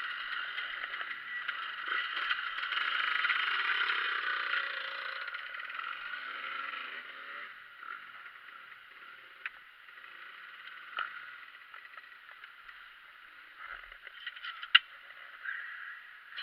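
Motocross bikes running on a dirt track, heard at a distance as a steady engine noise. It swells over the first few seconds, then fades to a fainter drone with a few sharp clicks.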